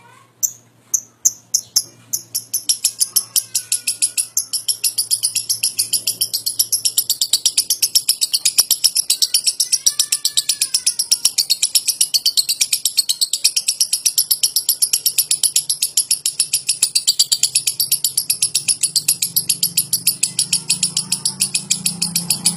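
Lovebird "ngetik" chatter: a few spaced sharp chirps, then a long unbroken run of fast, high, clicking chirps, several a second. Faint short whistles sound behind it about ten seconds in.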